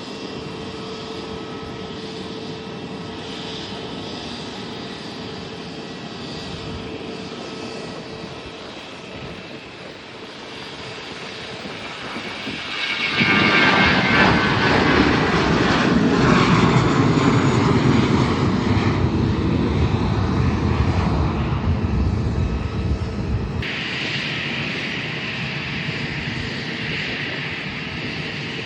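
Airplane engines grow loud about thirteen seconds in as an aircraft passes close, with a whine that falls in pitch. The deep rumble drops away a few seconds before the end, leaving a lighter hiss.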